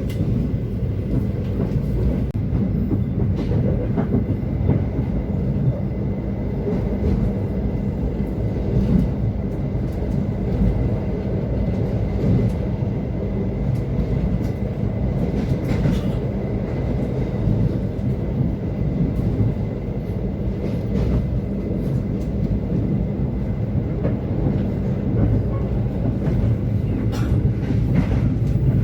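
Passenger train running along the track, a steady low rumble of wheels on rails with a few faint clicks, heard from inside the coach.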